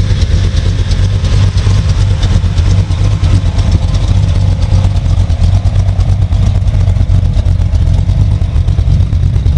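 Engine of a 1952 Chevrolet pickup truck running steadily, loud and close, with a low, fast, even pulsing.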